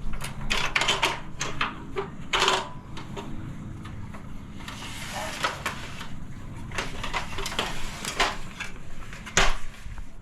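A run of sharp knocks, clicks and clatters from equipment being handled, with a scraping stretch about halfway and one loud knock near the end.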